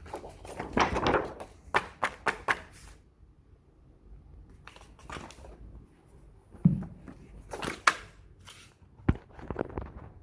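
Handling noises: a rustle, then a quick run of sharp clicks, a dull thunk and a few more clicks and rustles.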